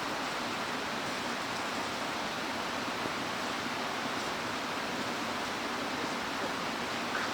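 Mountain stream rushing steadily over rocks, an even water noise with no breaks.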